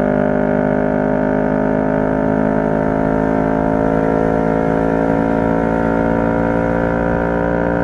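CFMoto 650NK's parallel-twin engine running at a steady speed, an even drone with no change in pitch.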